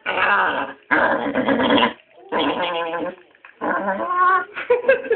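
A dog making a string of drawn-out, growly, talking-like vocalizations: about five calls of under a second each with short pauses between, some rough and raspy, others with a clearer pitch.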